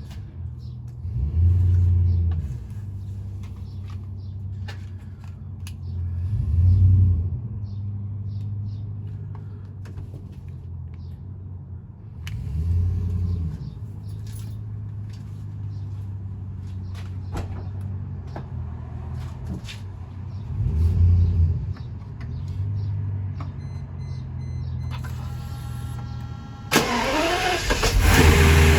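Mercedes-Benz R129 SL600's 6.0-litre V12 running just after a cold start, a steady low note that swells up and settles back several times. Near the end a much louder, rushing sound comes in suddenly.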